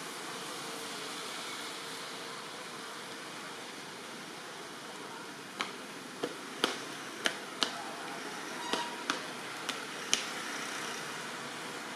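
Steady hiss of rain. In the second half about ten sharp knocks or taps come at irregular intervals.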